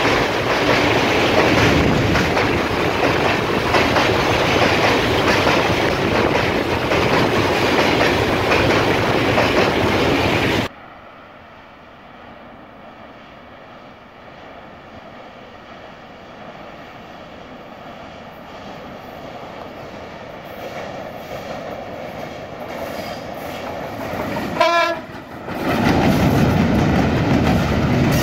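Freight train wagons rolling past close by, loud and steady. Then a sudden change to the faint rumble of a train approaching inside a tunnel, slowly growing louder. A locomotive horn sounds briefly about 25 s in, and the train comes out loudly as its open wagons pass.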